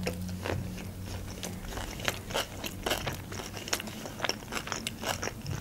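Close-up chewing of a mouthful of salmon sushi roll: many small, irregular mouth clicks and smacks.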